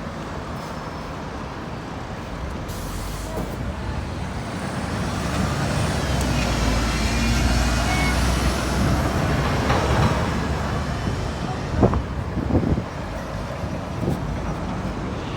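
A heavy road vehicle drives past, its engine rumble building to a peak about halfway through and then fading, with a few brief sharp sounds near the end.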